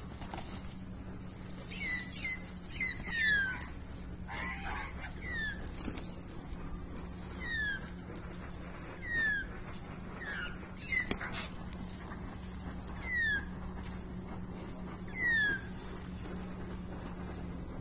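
A bird calling in short, high notes that each slide quickly downward. There are about a dozen, several close together in the first few seconds, then one every two seconds or so.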